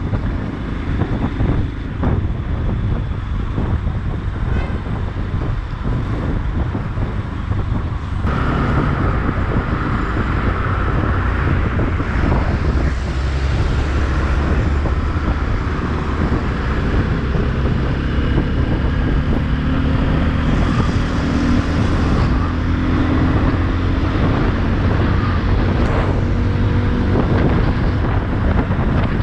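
Motorcycle engine running at highway speed with wind buffeting the helmet microphone and passing road traffic. It grows louder about eight seconds in.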